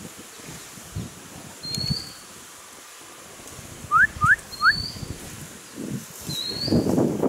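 Birds calling in scrub: three quick rising whistled notes about four seconds in, the loudest sound, and a short high chirp that repeats every couple of seconds. Under them, soft rustling of leaves and branches where the elephant stands among the bushes.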